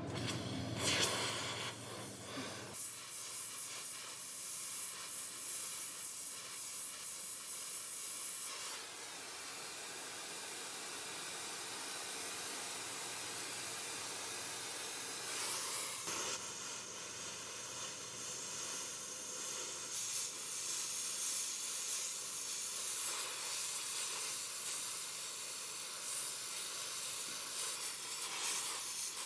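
Steady high hiss that changes character about 3, 9 and 16 seconds in.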